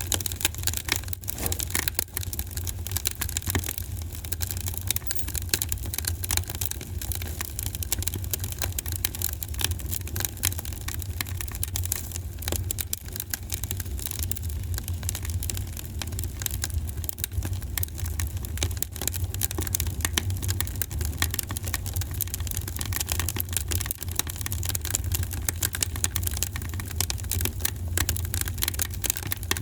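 Wood fire in a fireplace crackling, with a dense, irregular stream of small pops and snaps over a steady low rumble.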